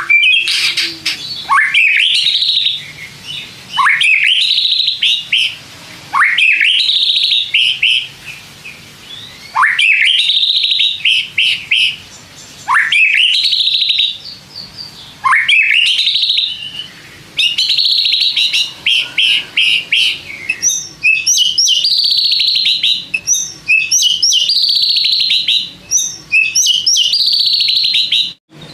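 White-rumped shama singing loud whistled phrases. Each early phrase opens with a quick upward sweep, coming about every two to three seconds; from about halfway the song turns into longer runs of rapid, varied notes.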